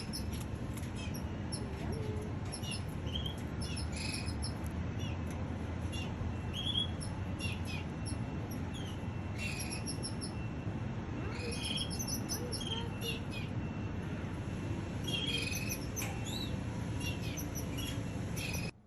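Birds chirping in short, scattered tweets and brief rising calls over a steady low background hiss. The sound cuts off suddenly near the end.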